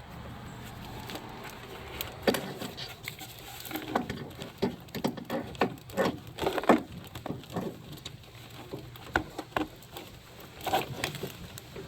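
Irregular light knocks, clicks and scrapes as a replacement starter motor is worked up into its mounting place in the engine bay.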